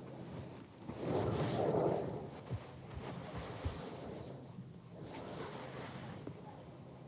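Heavy wind gusting in a snowstorm, swelling loudest about a second in and again around five seconds, with a couple of brief thumps in between.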